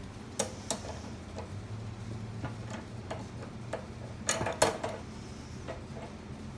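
Light metallic clicks and taps of gumball-machine lock hardware being handled and fitted, irregularly spaced, with two louder clicks close together a little past halfway.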